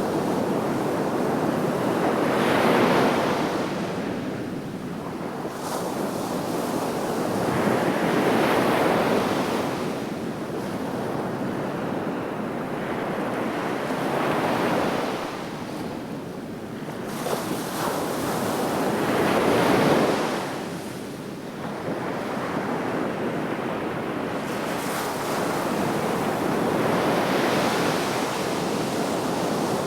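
Sea waves washing onto the shore in a continuous surf, swelling and falling back about every five or six seconds, with some wind noise on the microphone.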